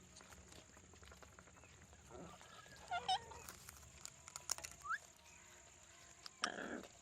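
Pet parrots calling: a pair of short calls about three seconds in, a few clicks and a brief rising whistle around five seconds, and a harsh noisy squawk near the end, over a steady high-pitched tone.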